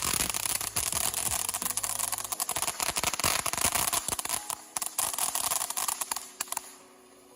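Freedom Fireworks Whimsy fountain firing: dense crackle over a steady hiss. It dies away near the end.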